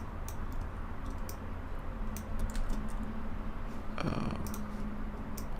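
Computer keyboard keys clicking now and then, a scattered handful of sharp taps, over a steady low electrical hum.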